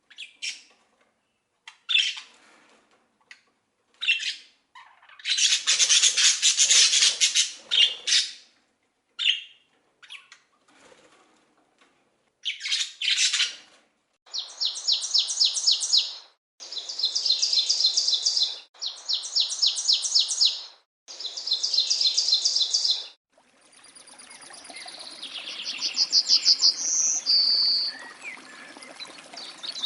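Wild songbirds calling and singing. Short chattering calls come in the first half. Then a rapid trilled phrase of about two seconds is repeated four times, and near the end a fainter trill sounds over steady hiss.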